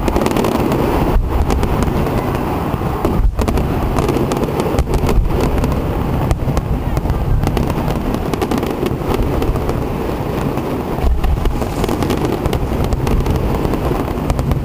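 Fireworks display: a steady run of booming bursts and crackles with no pause between them.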